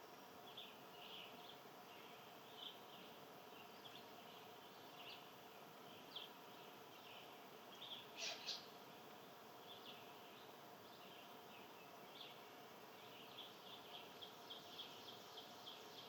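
Faint outdoor ambience with small birds chirping: scattered short chirps, two louder chirps about halfway through and a quick run of chirps near the end, over a faint steady hum.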